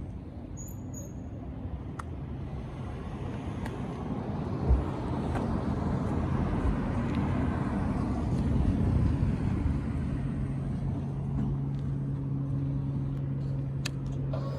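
Motor vehicle rumble that swells over several seconds, then settles into a steady low engine hum from about ten seconds in, with one short knock near the middle.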